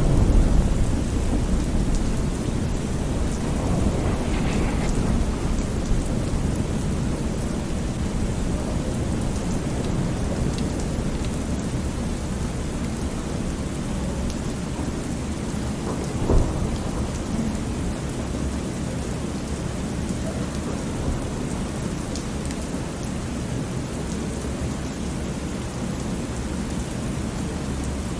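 Thunderstorm ambience: steady rain with a low, continuous rumble of thunder, swelling louder right at the start and again just past halfway.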